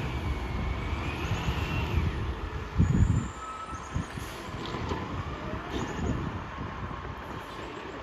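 Heavy truck going by on a road with traffic noise, the engine's low rumble loudest in a short burst about three seconds in, then quieter.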